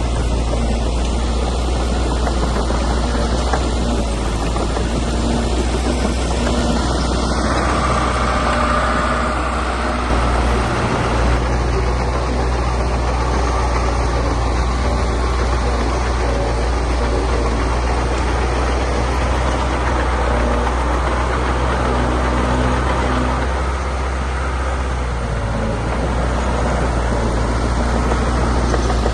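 Heavy diesel earthmoving machinery running steadily with a deep, even engine note that shifts slightly a third of the way in and again near the end.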